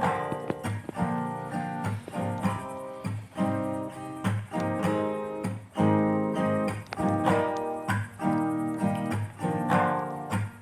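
Acoustic guitar strumming chords in a steady rhythm: the instrumental intro of a song, with no singing yet.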